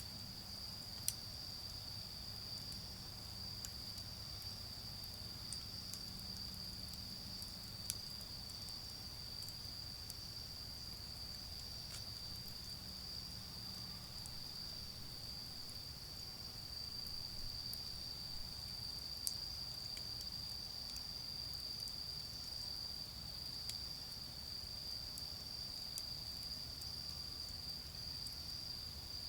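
Autumn insects chirring steadily in one high, unbroken band, with a few sharp pops from a charcoal fire. Underneath runs a faint low rumble of distant road traffic.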